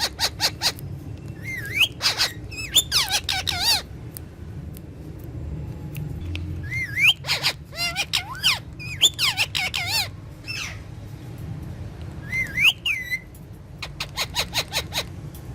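Pet parrot vocalising: fast runs of short chattering notes, rising whistles and warbling, pitch-bending calls, repeated several times.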